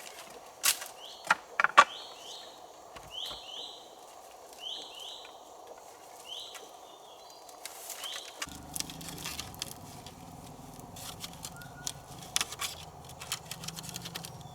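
A few sharp knocks and clicks, the loudest near the start, then a bird repeating a quick two-note call several times. Scattered crackling and a low rumble that comes in about halfway run under it.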